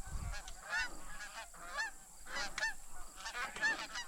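Flock of Canada geese honking, many short calls overlapping one after another, as the group comes in toward the decoys.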